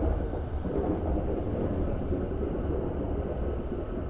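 Chūō Line rapid commuter train (JR East E233 series) pulling into the platform and slowing: a steady low rumble of wheels and running gear that eases off a little as it draws to a stop.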